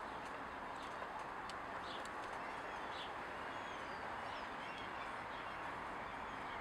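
Small birds chirping with short, high calls scattered over a steady background hiss, with a few faint clicks of small chainsaw parts being handled.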